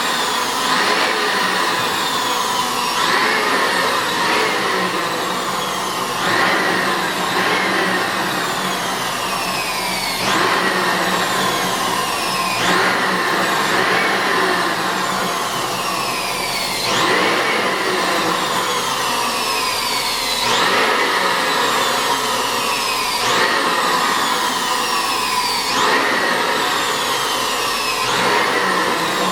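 Electric blower motor running continuously. Its pitch sweeps up quickly and then falls slowly, over and over, every two to three seconds.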